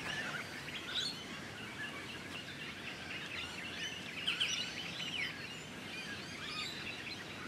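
Many birds chirping, short calls scattered throughout, over a steady outdoor background hiss.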